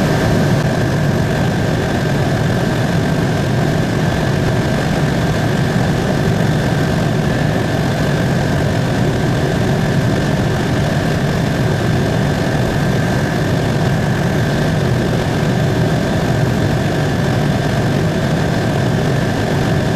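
Helicopter in cruising flight heard from inside the cabin: a steady engine and rotor drone with a constant high whine above it.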